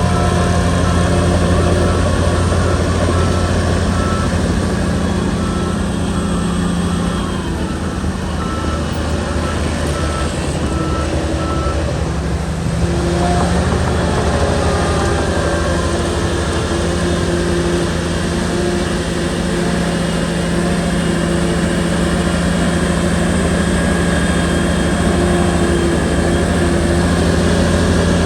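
Shantui bulldozer's diesel engine running steadily under work, easing off briefly around the middle before picking up again. A reversing alarm beeps at a regular rate through the first half.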